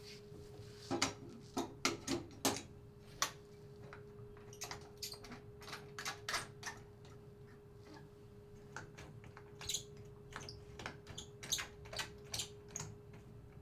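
Irregular sharp ticks and clicks, a few of them louder in the first few seconds, over a steady faint hum.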